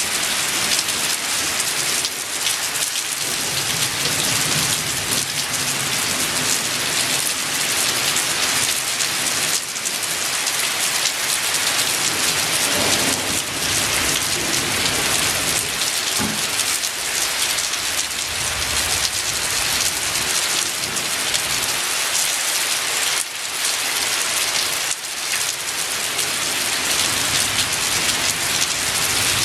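Heavy rain pouring down during a thunderstorm: a dense, steady hiss, with low rumbles of thunder now and then.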